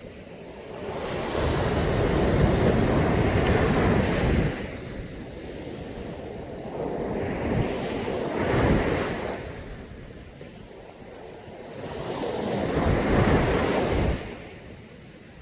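Caribbean sea waves breaking on a beach: three surges of surf, about a second in, near the middle and near the end, each rushing in and fading away.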